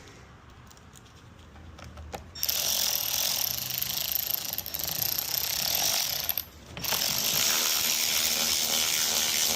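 A ratchet tightening the last screw on the pole saw's engine after the carburetor swap. It starts about two and a half seconds in and runs steadily, with a brief break about six and a half seconds in.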